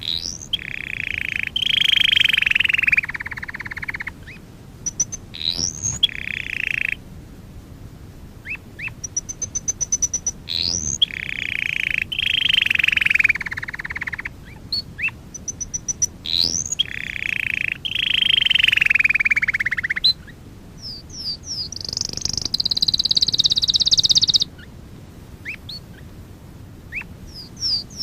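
Domestic canary singing: long rolling trills of two to three seconds alternate with quick rising whistled sweeps and rapid runs of high chips. A higher, buzzier trill comes near the end.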